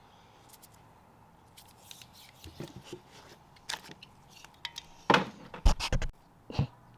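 Scattered clicks and knocks of small parts and tools being handled during engine assembly, the loudest cluster about five to six and a half seconds in.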